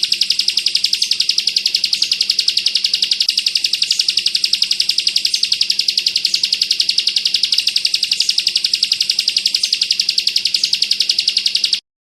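Bar-winged prinia (ciblek) singing its 'bren' song, a fast, unbroken, high-pitched trill of rapid repeated notes, steady throughout. It cuts off suddenly near the end.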